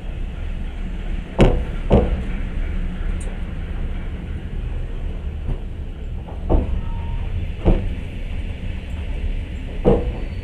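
Train running with a steady low rumble of wheels on track, punctuated by sharp clacks of wheels over rail joints: two about half a second apart near the start, then single clacks a few seconds apart.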